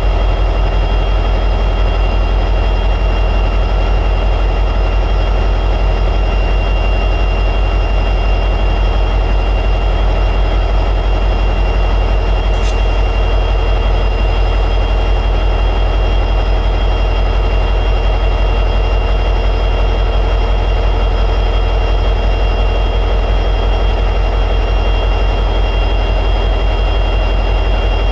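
EMD 710G3B V16 two-stroke diesel prime mover of an SD60E locomotive running steadily at high idle, with a steady high-pitched whine over the engine note. A single sharp click about twelve seconds in.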